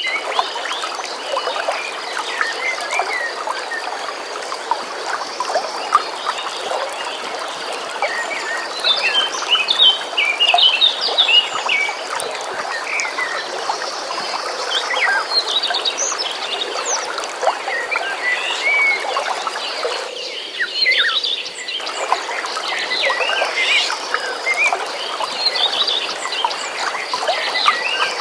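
Small birds chirping over the steady rush of a flowing stream, with a high steady trill running underneath. The water noise dips for about a second and a half around twenty seconds in.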